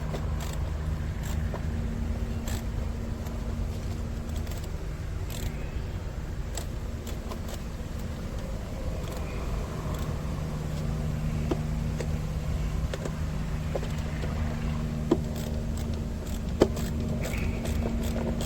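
Scattered light metal clicks and clinks of hand tools working bolts on the engine covers, over a steady low hum. Two sharper clicks come near the end.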